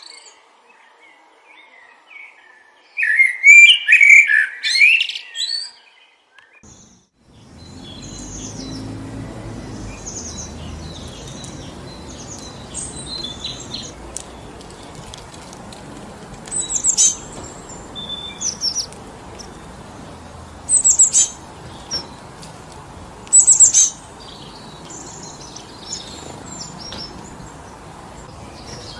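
A songbird sings a warbling phrase in the first seconds; then, about seven seconds in, a steady rush of wind through forest trees sets in, over which a bird gives a few short, very high chirps.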